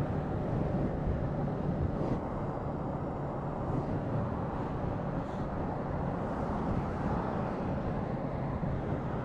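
Steady engine and road noise of a vehicle on the move, with a low hum running through it.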